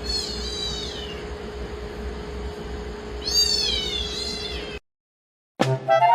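A domestic cat meowing twice, about three seconds apart, each call high-pitched and falling in pitch, over a steady background hum.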